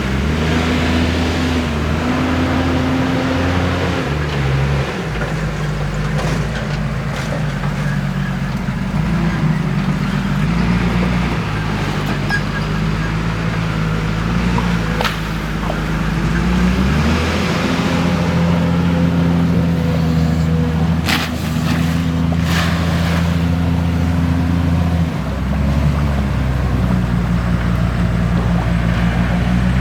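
Diesel engine of a JCB backhoe loader running hard, its pitch stepping up and down several times as the machine works, with a few sharp metallic knocks about two-thirds of the way through.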